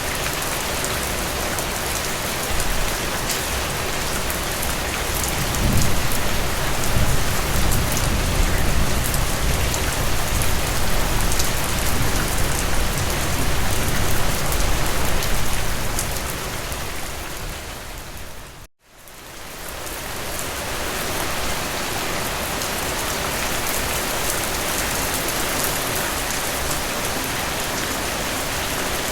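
Steady rain falling on a forest, a dense even hiss of drops, with a deeper low rumble swelling through the middle. About two-thirds of the way in, the sound fades briefly to silence and fades back in.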